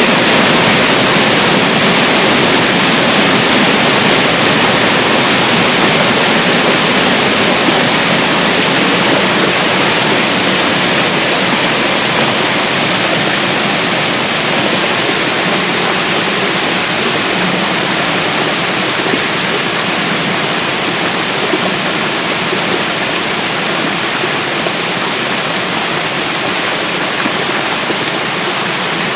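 Water pouring down a large artificial waterfall: a loud, steady, unbroken rush of falling water.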